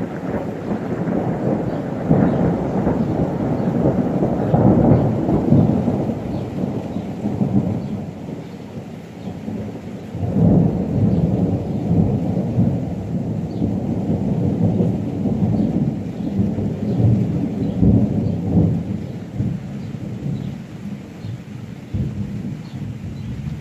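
Thunder rolling in long, rumbling peals: one builds about two seconds in, a second swells about ten seconds in and rumbles on for several seconds before fading, with rain falling throughout.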